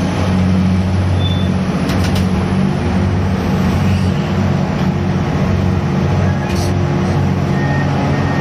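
Grab-crane sand carrier's diesel machinery running steadily under load, with a couple of sharp clanks. Near the end a short, repeated beeping alarm starts up.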